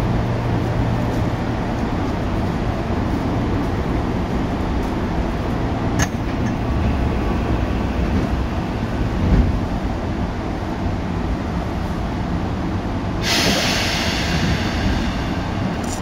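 Tokyu 8500 series electric train running, heard from inside the car: a steady rumble of wheels and motors on the rails. A sharp click comes about six seconds in and a low thud near nine seconds. A burst of hiss starts about thirteen seconds in and lasts some two seconds.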